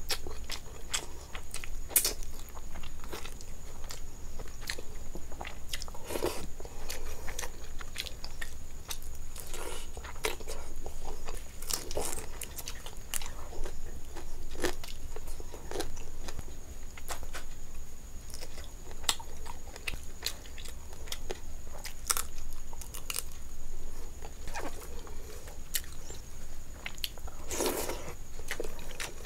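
Close-up chewing of mouthfuls of rice and curry, with short clicky mouth sounds scattered every second or so. A faint steady high tone runs underneath.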